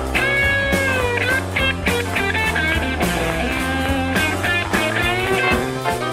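Blues-rock band recording: bass and drums under a lead line of held, bending notes, most likely electric guitar.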